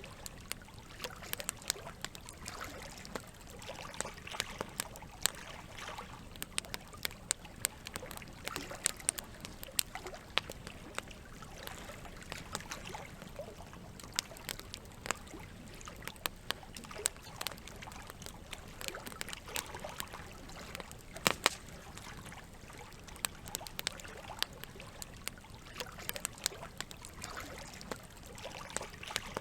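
Campfire crackling with many irregular sharp pops over a steady trickle of running water; a few louder pops come close together about twenty seconds in.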